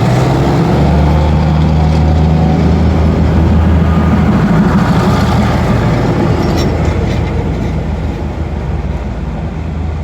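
Diesel train engine running close by, loud and steady, easing off after about four seconds, with a few light clicks near the middle.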